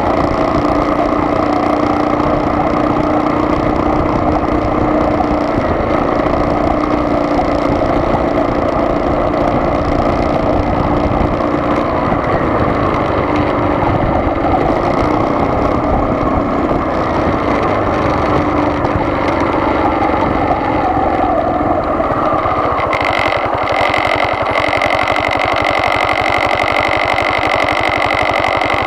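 Car driving along with steady engine and road noise. About three-quarters of the way through, a thin high whine joins in and the low rumble lightens.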